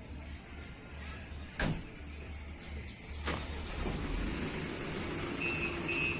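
Heavy truck engine running with a low, steady rumble, with two sharp knocks in the first half and a quick, evenly repeated beeping starting near the end.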